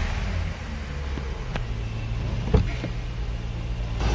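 A car engine idling steadily just after being started from a booster pack on a fully discharged battery, with the car having stood unused for a long time. A few sharp clicks are heard around the middle.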